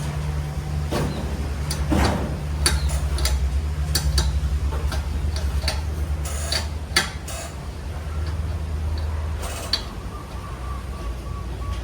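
A low, steady mechanical hum with a fast pulsing beat, overlaid by scattered sharp clicks and metallic taps; the hum eases somewhat near the end.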